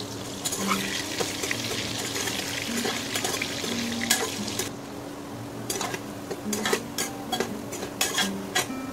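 Soya chunks sizzling in hot oil in an aluminium pressure cooker while a metal spatula stirs them. The sizzle is strongest in the first half; through the second half the spatula scrapes and clinks against the pot many times.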